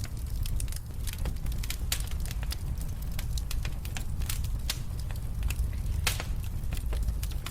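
Wood fire burning in a fireplace: a steady low rumble with irregular crackles and sharp pops, the loudest pop about six seconds in.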